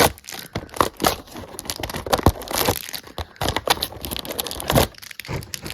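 Crinkly plastic blind-bag packaging of a toy figure being handled and torn open: irregular crackling and rustling.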